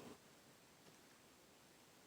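Near silence: room tone, with one faint soft sound right at the start.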